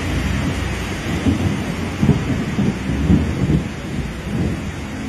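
Heavy rain pouring in a downpour, with irregular low rumbles rising and falling between about one and four and a half seconds in.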